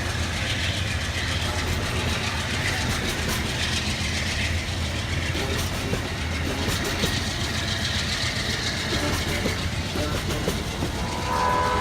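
Train rolling past with its rail cars clicking over the track, and a steady low rumble. A train horn starts to blow near the end.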